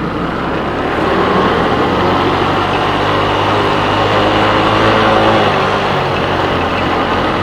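Motor vehicle engine running on the road, with road and traffic noise. It grows louder over the first second, then holds steady.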